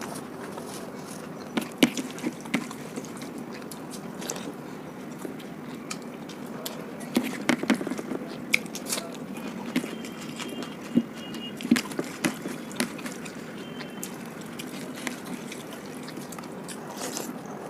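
Close-up eating sounds: wet mouth clicks and chewing of curry and rice, coming in three short clusters over a steady low hum.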